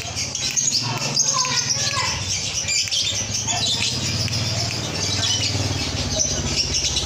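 Lovebirds chattering: a dense stream of short, rapid, high chirps and squeaks, over a low steady hum.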